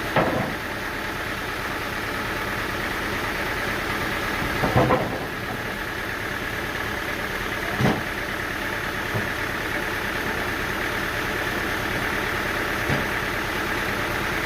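An engine running steadily at idle, with four short, sharp knocks several seconds apart, the loudest near the start and about five seconds in.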